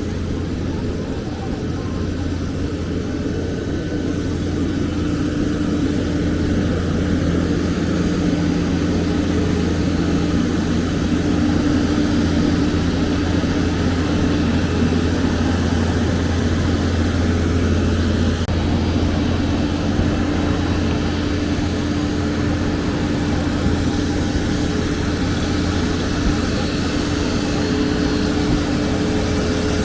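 Steady aircraft noise from a Boeing 737-800 on the ground: a continuous low hum with a faint high whine, growing slightly louder over the first several seconds.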